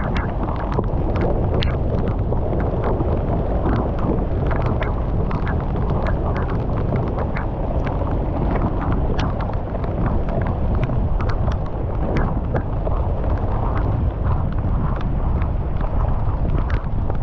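Water gushing through a culvert: a loud, steady rush with many irregular splashes and knocks over it.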